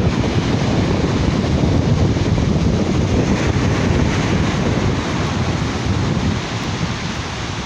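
Sea surf washing on a beach, mixed with wind buffeting the microphone in a steady, dense rumble.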